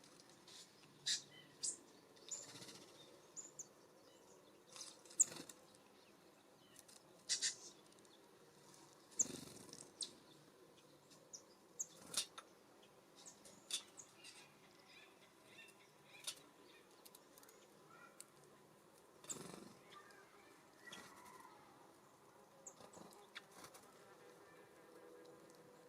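Small songbirds at a feeder: scattered soft taps and pecks, brief wing flutters and a few faint, high chirps.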